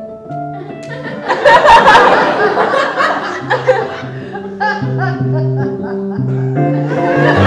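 Theatre audience laughing, loudest about a second and a half in, over instrumental music with held notes.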